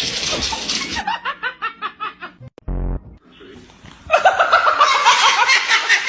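Laughing in a quick run of short bursts about a second in, then louder, fuller laughter from about four seconds in.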